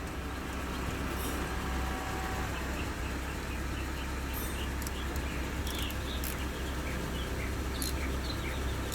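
Motorcycle engine idling steadily, with birds chirping now and then from about four seconds in.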